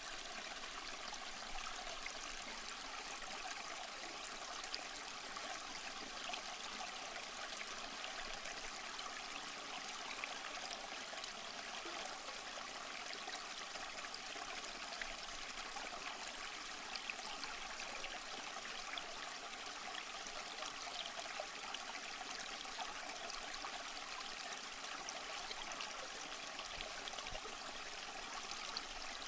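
A small stream running over rocks, a steady splashing trickle with fine bright spatter and little low rumble.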